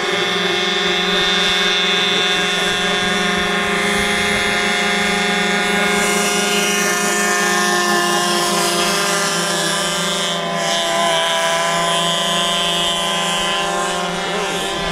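Model in-line engine of an RC airboat running steadily with its air propeller, the pitch shifting a little with small throttle changes.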